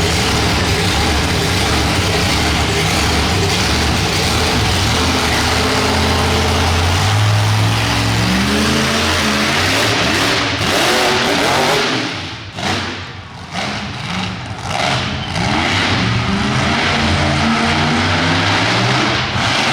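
Monster truck engine running hard at high revs, its note climbing. From about twelve seconds in, the throttle is repeatedly chopped and reopened, so the engine note drops and surges several times in quick succession.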